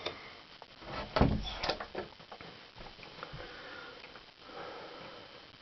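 A door being opened: a dull thump about a second in, then a couple of sharp clicks, followed by faint handling and rustling noise.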